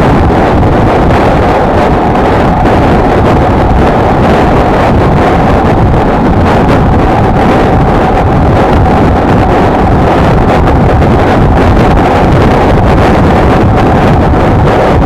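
Wind buffeting the microphone on a moving Honda XLR125R motorcycle, with the steady note of its single-cylinder four-stroke engine holding a constant speed underneath.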